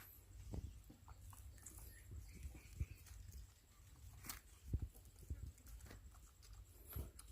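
Faint irregular soft knocks and clicks with a few faint, short, high squeaks from young animals nursing on a mother dog.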